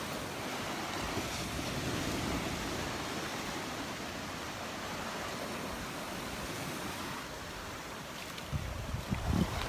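Surf washing steadily onto the beach. From about eight and a half seconds in, wind buffets the microphone with uneven low rumbles.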